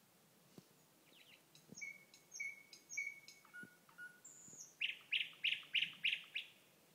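Thrush nightingale singing one varied song phrase: a few quick notes, three repeated chirps, two lower whistles and a high whistle, ending in a loud run of six rapid harsh notes.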